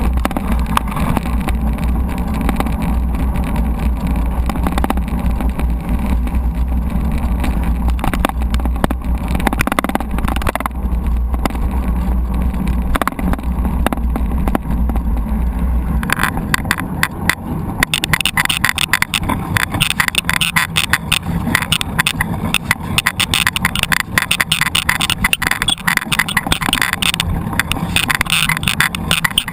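Ride noise from a mountain bike on the move: a heavy, steady wind rumble on the microphone, then, from about halfway, a dense, fast clatter of the bike rattling over rough ground.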